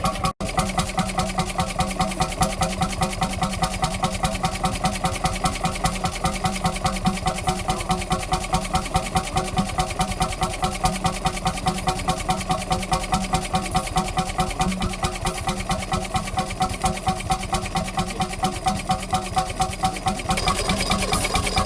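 Vintage engine running steadily with an even beat of about five pulses a second.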